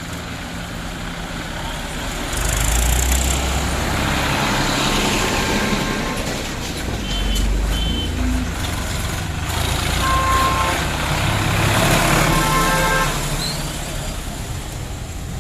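Road vehicles passing on a narrow road: engine rumble and road noise that swell as a vehicle goes by, with several short horn honks.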